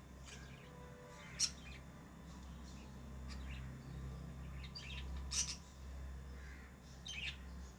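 Pet lovebirds chirping: short, sharp, high calls, the loudest about one and a half seconds in, midway and near the end, with softer chatter between, over a low steady hum.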